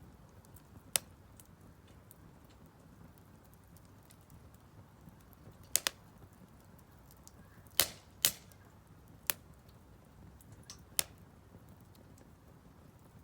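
Firewood burning in a Solo Stove Campfire fire pit, crackling with scattered sharp pops, about six in all, the loudest two close together about eight seconds in, over a faint steady low noise.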